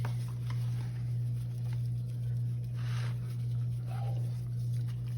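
Steady low hum, with a few faint clicks and a short rustle about three seconds in.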